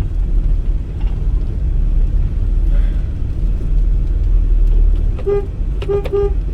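Vehicle engine and road rumble from a moving van, heard steadily. Near the end, a horn sounds three short toots.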